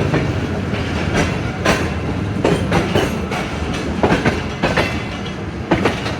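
Passenger train running at speed, its wheels clicking over rail joints in sharp, uneven knocks about twice a second over a steady low rumble.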